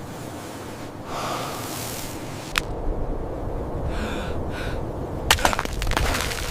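People breathing hard and gasping with effort over a steady rushing noise, with sharp cracks about two and a half seconds in and again near five seconds.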